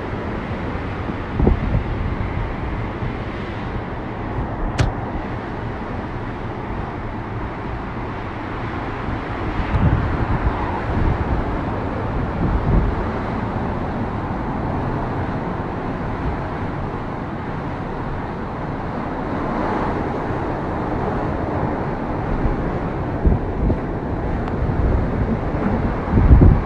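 Hurricane wind blowing hard and steadily, with gusts buffeting the microphone in low thumps. A single sharp click about five seconds in.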